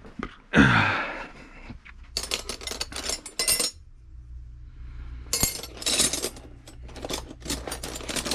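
Loose metal wrenches clinking and clattering against each other as they are rummaged through by hand, in two spells of rapid clinks. About half a second in there is one louder short sound that drops in pitch.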